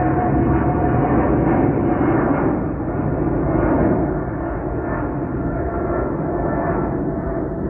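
Boeing 777's twin jet engines at takeoff power: a loud, steady rumble with a faint crackle, easing a little about two and a half seconds in.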